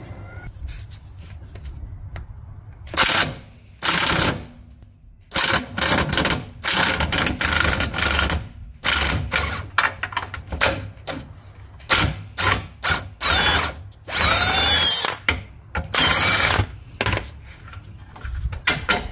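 Impact wrench run in many short bursts, loosening the lower control arm's ball-joint nut and bolts. The bursts start about three seconds in.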